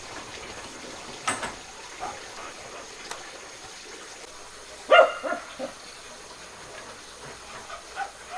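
Dog barking: one sharp bark about five seconds in, followed by a few short, softer yelps.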